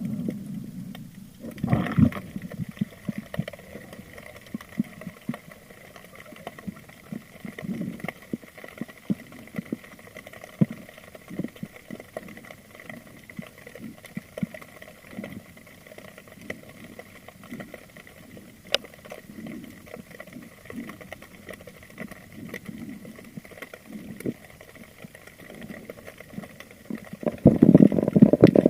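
Underwater recording from a spearfishing dive: scattered small clicks and knocks over a faint steady whine, with a louder rushing burst about two seconds in and again near the end.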